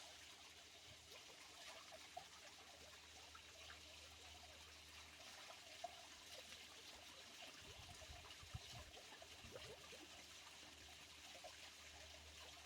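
Faint trickle of a small stream, water babbling over stones, with a brief low rumble about eight seconds in.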